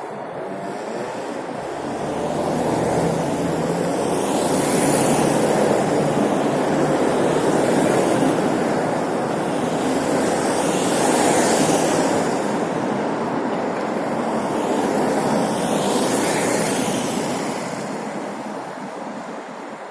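Road and wind noise while riding along a city street, with traffic going by; the sound swells three times, about 5, 11 and 16 seconds in, as vehicles pass close.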